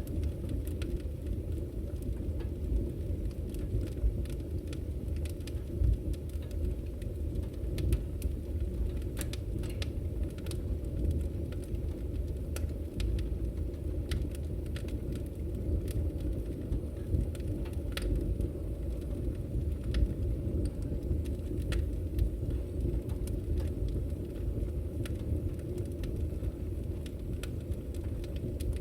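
Firewood burning in a camping wood stove: a steady low rumble of the fire, with scattered sharp crackles and pops throughout.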